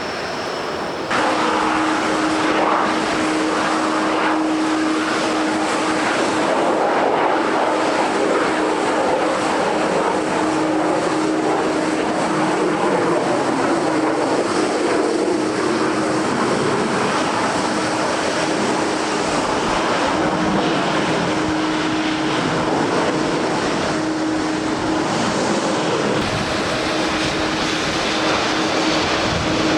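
Airliner engines running with a steady hum, mixed with a dense rush of wind and rain noise. The sound comes in abruptly about a second in.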